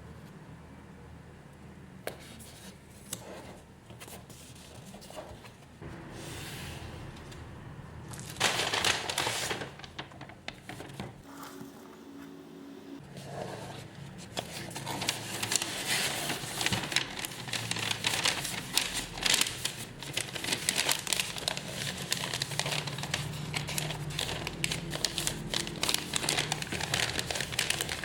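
Plastic packaging crinkling and rustling as parcels are packed. There is a loud rushing rasp about a third of the way in, and the crackling grows dense and continuous from about halfway on.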